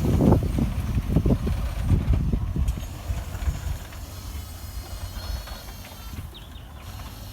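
Narrow-gauge train on the move: a run of irregular knocks and low rumble over the first couple of seconds, dying away to a quieter background.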